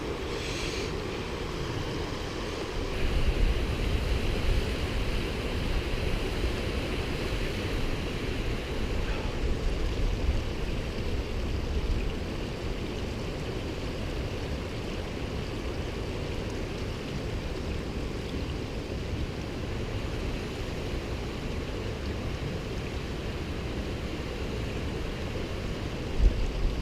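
Steady rush of a waterfall and river, with low wind rumble on the microphone surging for several seconds early on and again near the end.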